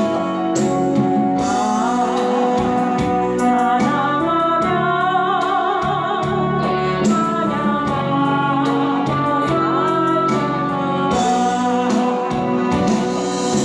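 Gospel praise song: a singing voice with vibrato over instrumental backing, continuous and steady in loudness.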